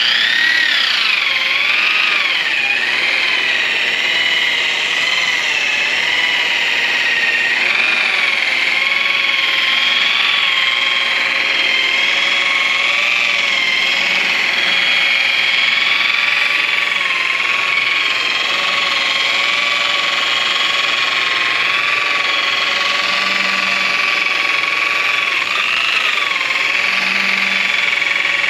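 Electric rotary polisher running at speed on aluminum brightwork, a loud steady high whine whose pitch dips briefly now and then as the pad is loaded against the metal.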